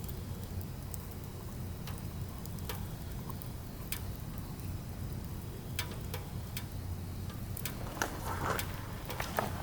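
Firewood burning, with scattered sharp crackles and pops over a low steady rumble; the crackling grows busier near the end.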